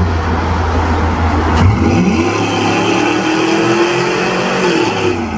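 Pickup truck engine running through a newly modified exhaust: idling, then revved up about two seconds in, held at high revs for a couple of seconds, and let back down to idle near the end.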